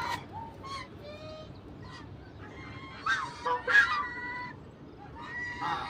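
Farm poultry calling: honking calls mixed with hen clucking, loudest in a cluster a little past the middle.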